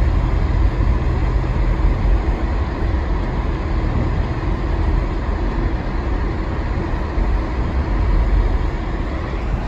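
Steady driving noise of a car moving along a snowy road: a constant low rumble from engine and tyres, with no distinct events.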